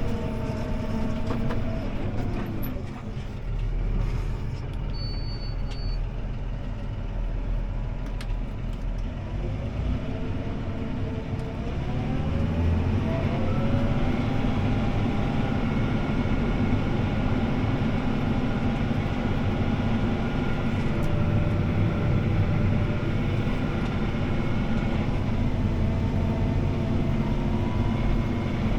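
CLAAS ARION 650 tractor engine running under load inside the cab. The revs drop a couple of seconds in, then climb back up about ten to fourteen seconds in and hold steady.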